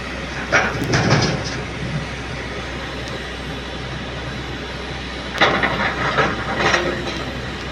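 Large excavator's diesel engine running steadily, with two stretches of louder rattling and clatter, about half a second in and again about five and a half seconds in.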